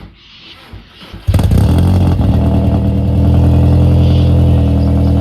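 A 2002 Audi A3 engine starting through a straight-through exhaust, its muffler chopped off and a 4.5-inch tip fitted. It catches suddenly about a second in, flares briefly, then settles into a steady, loud idle.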